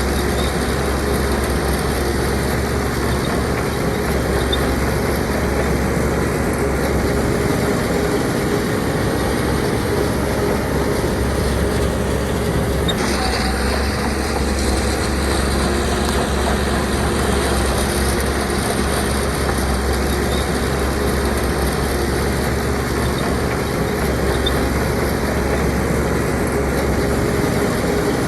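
Heavy diesel engine of a Shantui DH17C2 bulldozer running steadily, with a slight change in tone about halfway through.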